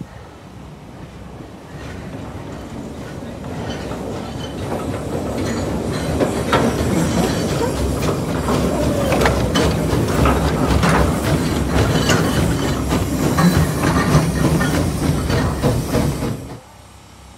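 Narrow-gauge steam train of open passenger cars passing close by, its wheels clicking and clattering over the rail joints. It grows louder as it approaches, is loudest through the middle, and drops off sharply near the end.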